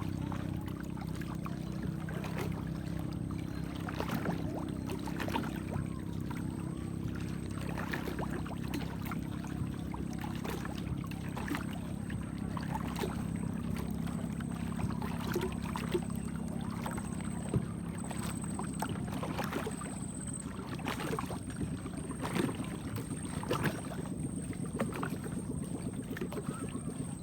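A boat's engine running steadily underway, with irregular slaps and splashes of water against the hull.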